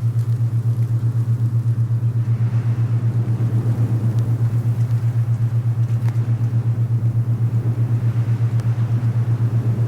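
Low, steady binaural-beat tone pulsing quickly and evenly at an alpha-wave rate, over a softer bed of wind that swells and eases.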